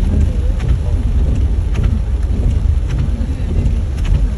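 Heavy rain with a loud, steady low rumble underneath and faint scattered ticks.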